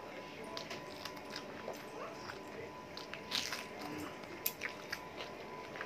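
Close-up eating sounds of a person eating rice and chicken curry by hand: chewing with scattered short wet clicks and smacks, and a few louder ones past the middle.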